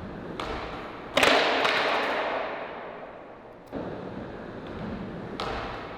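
Skateboard trick down a set of stairs: a pop, then a loud slap of the board landing about a second in, followed by the urethane wheels rolling away and fading. Smaller knocks come later on.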